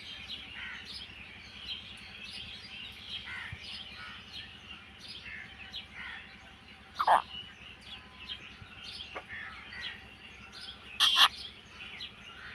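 Indian ringneck parakeet calling: a run of short high chirps, with a louder call about seven seconds in and a sharp screech about eleven seconds in.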